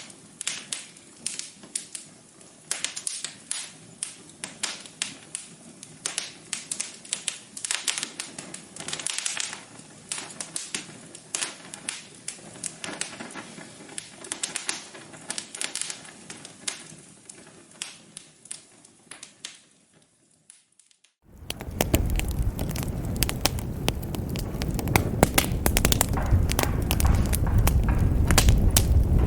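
Wood fire crackling in a fireplace, with irregular sharp pops and snaps. About 21 seconds in it cuts out for a moment and comes back louder, with dense crackling over a low rumble of flames.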